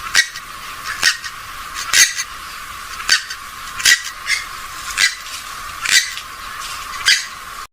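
Recorded calls of a rail-family waterbird (swamphen or moorhen): a short, sharp call repeated about once a second over a steady hiss.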